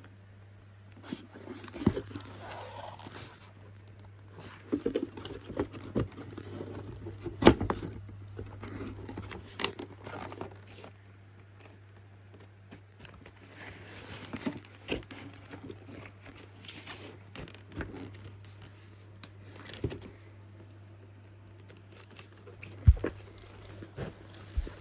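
Boxed fireworks being handled: cardboard and plastic packaging rustling and crinkling, with scattered knocks as items are picked up and set down, over a steady low hum. The two sharpest knocks come about a third of the way in and near the end.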